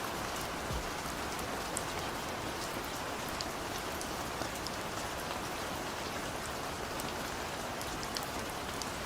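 Steady rain, an even hiss with scattered sharp ticks of single drops.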